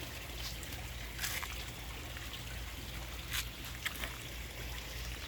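Water trickling steadily, over a low hum, with a few faint clicks.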